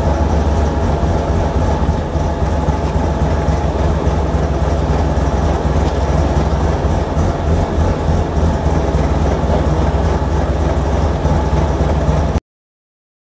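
Mazda RX2 rally car's rotary engine idling steadily while the car waits in a queue, heard from inside the car. The sound cuts off suddenly near the end.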